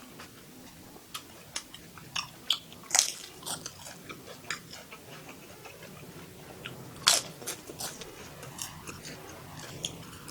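A person eating close to the microphone: irregular crisp crunches of biting and chewing, with two louder crunches about three and seven seconds in.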